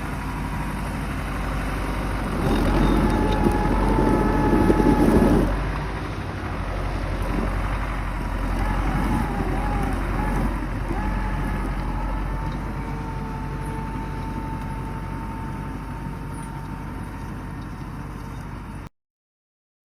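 YuMZ tractor's diesel engine running, louder for a few seconds about three seconds in, then slowly fading. It cuts off abruptly near the end.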